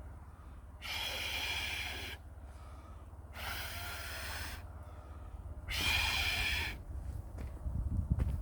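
A person blowing three long breaths onto the kindling of a log fire to fan the flames, each blow a hiss of about a second, with low thumps near the end.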